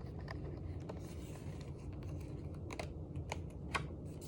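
Scattered light clicks and paper taps of a hardcover picture book being handled as its page is turned, over a steady low hum.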